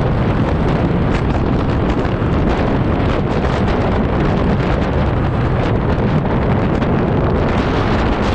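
Strong wind buffeting the microphone of a scooter in motion: a loud, steady rumbling noise with constant small gusting flutters.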